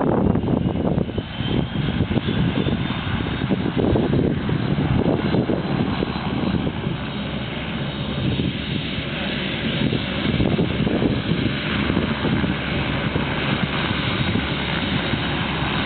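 Turboprop engine and propeller of a Cessna 206 running steadily under power, with a faint high turbine whine rising slightly early on.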